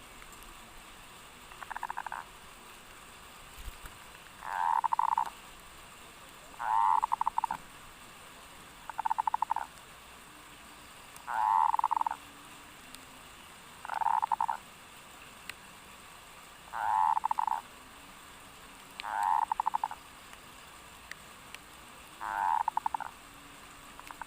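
Zebra dove (perkutut) cooing: a short, rapidly pulsed, trilling coo repeated about every two and a half seconds, around ten times.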